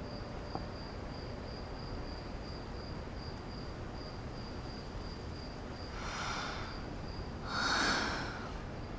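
Insects, cricket-like, chirping steadily in a high pulsing trill of about four pulses a second. Two soft rustling swishes come near the end, the second louder.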